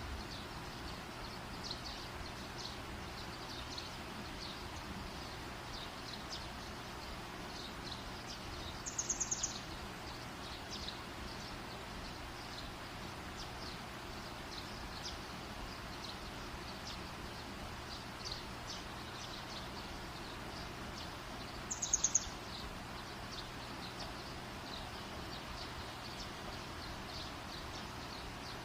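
Campfire burning with a steady hiss and many small, light crackles. Twice, about nine seconds in and again near twenty-two seconds, a brief run of rapid high-pitched chirps stands out as the loudest sound.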